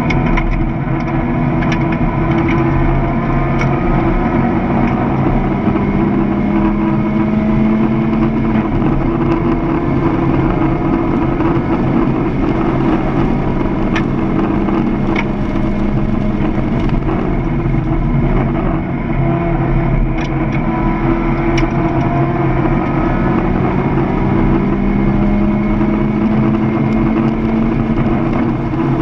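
Mazda MX-5 Miata's four-cylinder engine heard from inside the cabin under hard track driving. The engine note climbs in pitch and drops back several times as the car accelerates and shifts gears.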